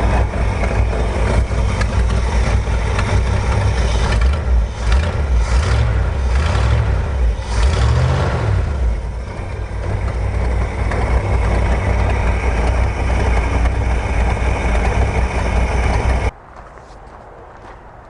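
1969 Ford F100's FE-series 360 cubic-inch V8 running at idle, blipped three times in quick succession about five to eight seconds in, each rev rising and falling in pitch. The engine sound cuts off suddenly near the end.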